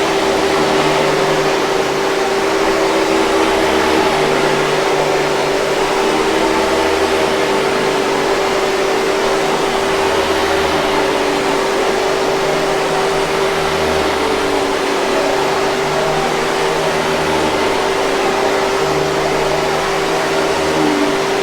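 Hoover 5000 Series canister vacuum cleaner running continuously: a steady airflow hiss over a constant motor whine, with a faint low hum that slowly swells and fades every few seconds.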